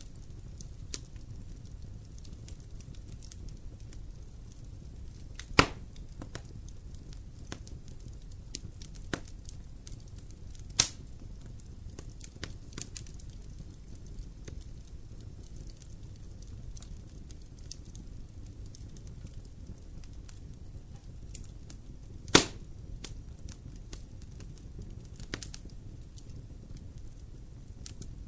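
Wood fire burning in a fireplace: steady small crackles over a low rumble of flame, with three loud, sharp pops of the burning wood.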